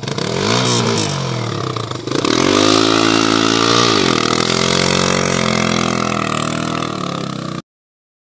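Enduro dirt-bike engine revving: a short blip about half a second in, then the revs climb about two seconds in, hold, and fall back near four seconds. It runs on steadily until the sound cuts off suddenly near the end.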